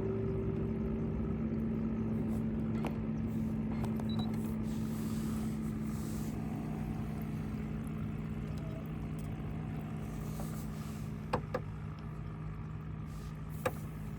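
An engine running steadily with a low, even hum that slowly gets quieter, and a few sharp clicks near the end.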